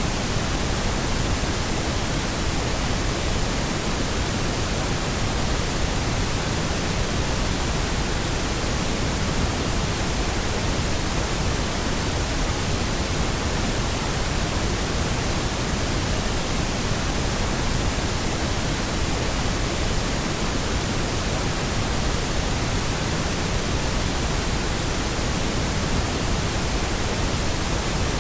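Pink noise: a steady, unchanging hiss that is spread evenly over all pitches, with no tones or events.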